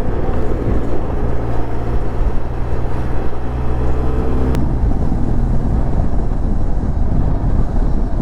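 Benelli TRK 502's parallel-twin engine running steadily under way, with road and wind noise. A single sharp click comes about halfway through, after which the engine note shifts slightly.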